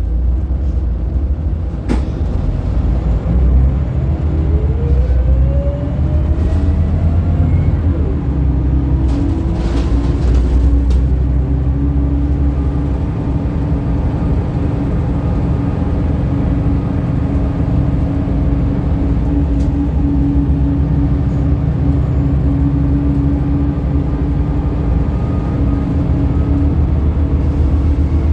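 Scania L94UB bus's five-cylinder diesel engine and drivetrain running while under way: a low rumble throughout, a rising whine a few seconds in as it accelerates, then a steady whine held for most of the rest. A sharp click about two seconds in.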